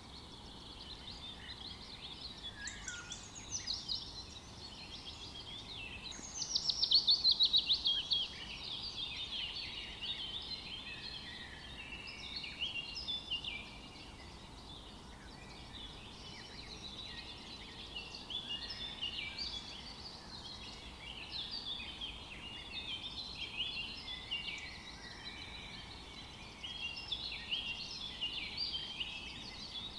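Several songbirds calling and singing over a faint steady background hiss. About six seconds in, one bird gives a loud, rapid trill that falls in pitch for about two seconds.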